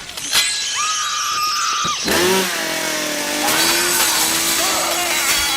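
Film sound effects of mechanical whining: a short high whine that glides up and holds, then from about two seconds in a steady motor-like whine with overtones over a noisy hiss.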